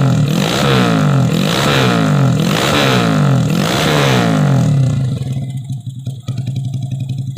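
Modified Yamaha Vega ZR's four-stroke single-cylinder engine revved about four times by hand through its aftermarket exhaust, then settling to a steady idle about five seconds in.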